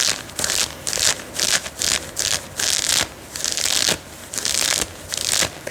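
Cloth being scratched close to the microphone: short, scratchy strokes repeated about two to three times a second.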